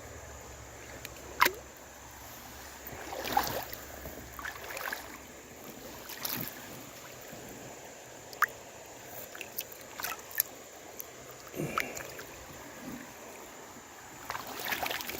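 Wading through a rocky creek: water swishing and splashing around the legs over the steady rush of the stream, with a few sharp clicks of stones knocking together.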